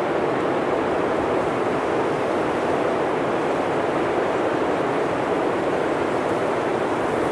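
Blizzard wind blowing through a forest, an even, continuous rushing with no gusts or separate events.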